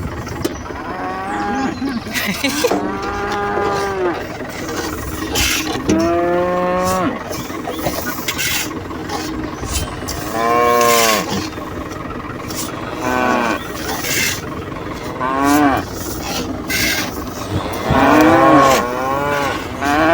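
Cows mooing repeatedly, about eight calls a few seconds apart, each one rising and then falling in pitch. Some calls are short and some last over a second.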